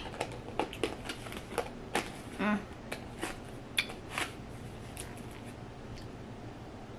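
Wet mouth smacking from chewing sour Gushers fruit snacks, a quick run of irregular clicks over the first four seconds or so, with a brief hum about halfway through, then fading.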